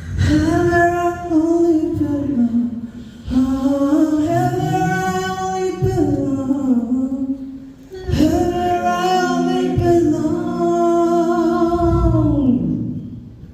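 Beatbox crew performing a cappella: a sung melody in three long held phrases over a mouth-made bass line, fading out near the end.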